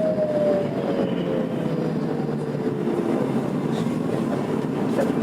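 Tokyo Metro 02 series IGBT-inverter traction motors whining in a tone that falls steadily in pitch as the train slows under braking, over steady wheel and running noise inside the car.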